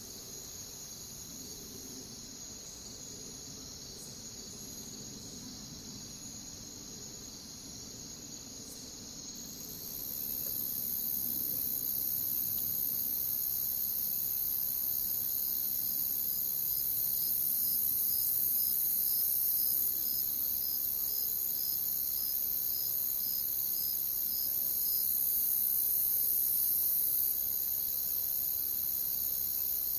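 A chorus of crickets chirping steadily. About ten seconds in, a louder, higher-pitched insect trill joins and carries on.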